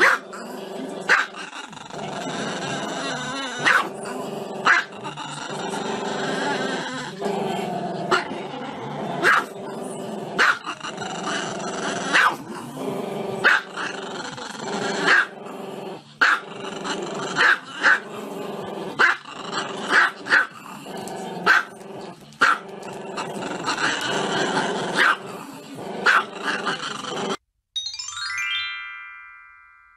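A small dog barking over and over, about once a second, over music. Near the end the barking cuts off and a short sweeping chime plays.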